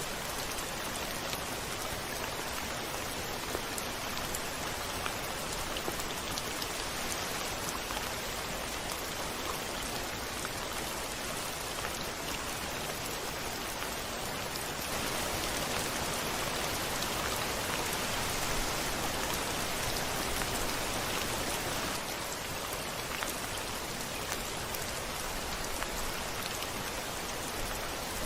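Steady rain falling on a window pane, with individual drop hits ticking through it. It grows louder for a spell about halfway through, then eases back.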